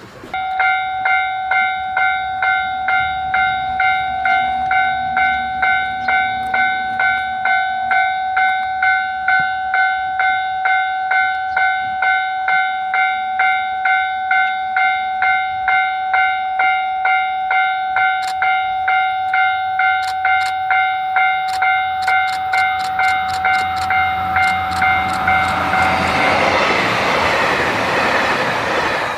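Railway level-crossing alarm ringing in steady, even pulses of one fixed tone. Wheel clicks come closer and faster from the last third, and near the end a train's rushing noise rises over the alarm as it passes.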